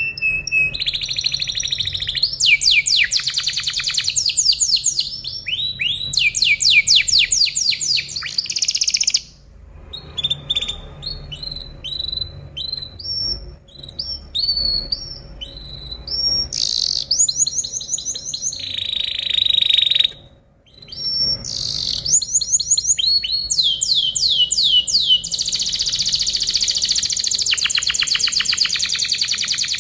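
Canary singing: fast rolling trills of rapidly repeated notes. The song breaks off briefly twice and has a softer stretch of scattered chirps in the middle.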